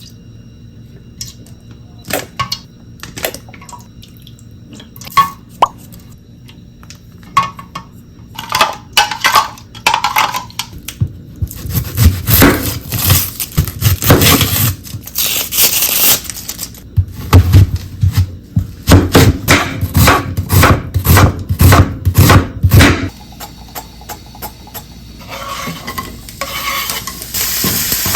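Kitchen utensils and dishes clinking and knocking: scattered at first, then a busy stretch of dense clatter in the middle. Near the end a pan begins to sizzle as food starts frying.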